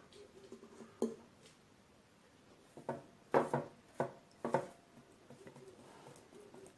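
A handful of short, light knocks and clinks of small hard objects being handled, one about a second in and a close cluster between about three and four and a half seconds.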